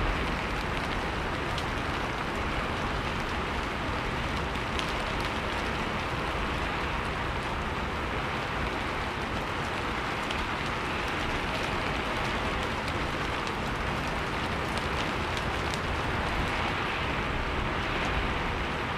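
Steady rain falling, with scattered sharp drop clicks standing out from the even hiss.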